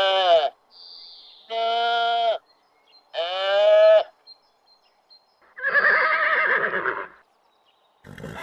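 Farm animals calling: a series of drawn-out calls, each lasting about a second, with the last one, about five and a half seconds in, rougher and noisier.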